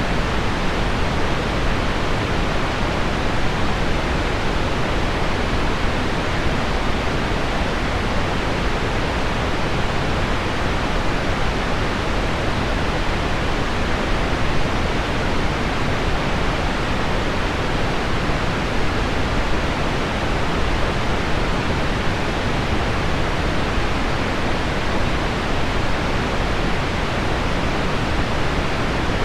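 Steady, even rushing noise: pink noise with heavy rain on window glass mixed in, unchanging throughout with no distinct drops or patters standing out.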